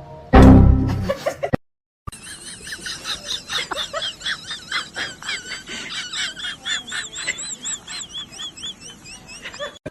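A loud thump with a short low rumble, then, after a brief gap, a run of rapid high-pitched animal chirps, about three a second, each rising and falling in pitch.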